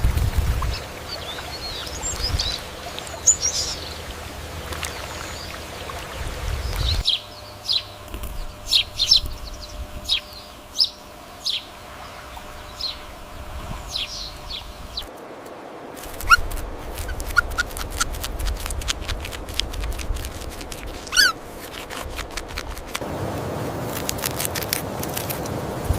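Short, high chirping calls from an animal or bird, repeated many times across several joined clips. A rapid run of clicks fills the middle of the stretch.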